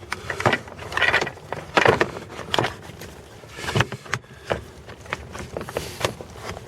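Hand tools being gathered up and put away: a string of irregular clinks, knocks and rustles of handling.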